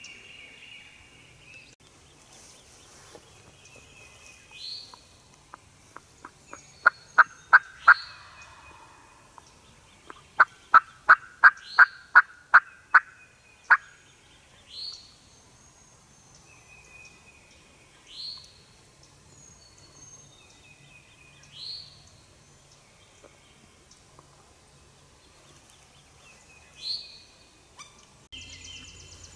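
Eastern wild turkey calling: a short run of about four loud, sharp notes, then a longer run of about ten, each at roughly three notes a second. A songbird's short rising whistle repeats every few seconds.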